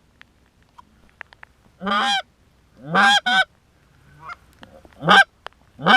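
Canada goose honks, loud and close: five calls, the second and third in quick succession, each breaking from a low note up to a higher one.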